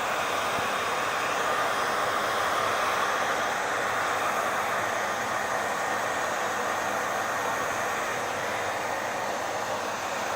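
Hair dryer running steadily, a continuous even rush of blown air with a faint motor hum underneath.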